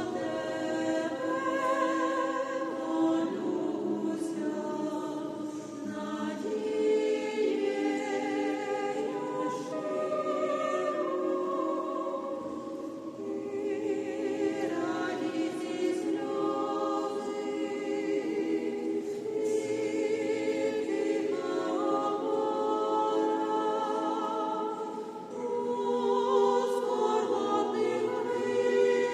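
Church choir singing a sacred song in several voice parts at once, holding long chords with brief breaks between phrases.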